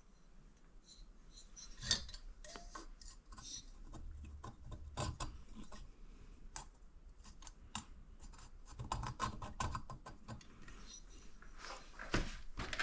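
Light metallic clicks, scrapes and rubbing of engine parts being handled during assembly of a small four-stroke engine's cylinder and piston, with a sharper knock about two seconds in and another near the end.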